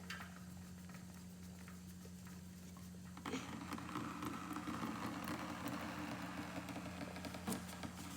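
Light clicks of an oil filter being turned by hand, then from about three seconds in a steady patter of engine oil running out of the filter and splashing into a drain pan. A steady low hum runs underneath.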